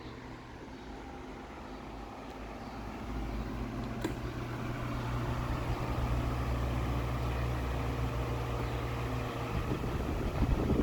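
Britânia Ventus Protect 40 desk fan running, a steady motor hum with the rush of its blades' air. It grows louder over the first few seconds and then holds steady. There is a single click about four seconds in, and low thumps near the end.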